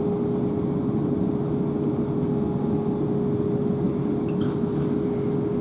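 Interior running noise of a Class 444 electric multiple unit under way: a steady rumble with one steady humming tone running through it.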